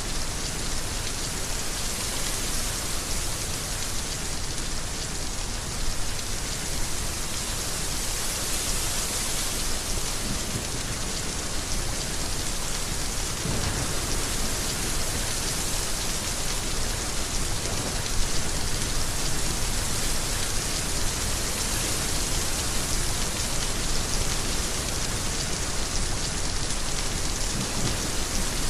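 Heavy rain falling steadily, a dense even hiss of drops, with slight swells in strength about halfway through.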